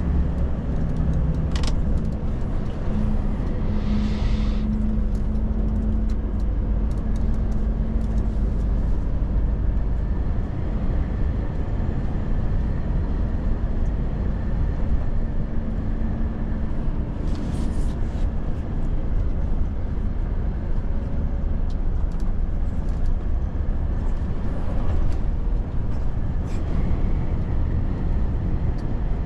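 Volvo FH truck on the move: a steady low rumble of engine and road noise, with an engine note coming and going. There are a few clicks and a short hiss about four seconds in.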